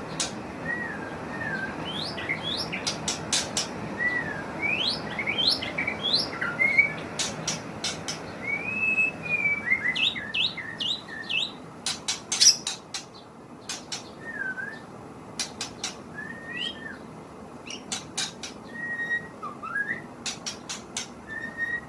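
White-rumped shama (murai batu) singing a lure song (suara pikat): short, clear whistled notes, many sweeping sharply upward, with sharp clicks scattered among them. The notes come more sparsely in the second half.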